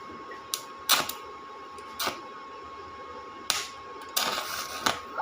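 Irregular sharp knocks and taps, about one a second, with a short scraping stretch followed by another knock near the end. A faint steady high tone runs behind them.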